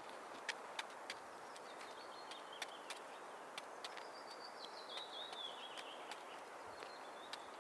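A bird singing faintly: a few high warbling notes about two seconds in, then a longer phrase that steps downward from about four to six seconds in. Scattered sharp ticks sound throughout over a faint steady background noise.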